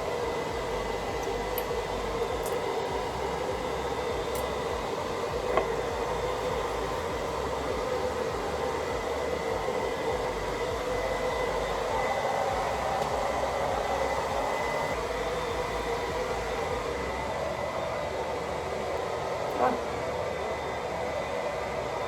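Hand-held hair dryer running steadily, a constant blowing noise with a fixed whine, with a couple of faint knocks about five and twenty seconds in.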